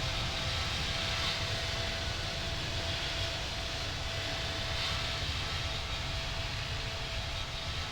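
Boeing 777-200LR's GE90 jet engines at takeoff power during the takeoff, a steady jet noise with a low rumble and a thin steady whine, easing slightly near the end.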